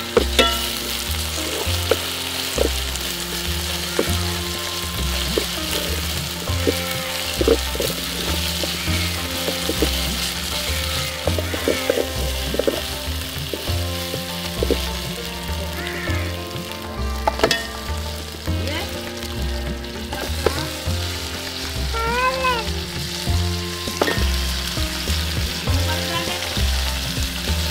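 Sliced onions, green chillies and curry leaves sizzling in hot oil in an aluminium pot, stirred and scraped with a wooden spatula in repeated strokes.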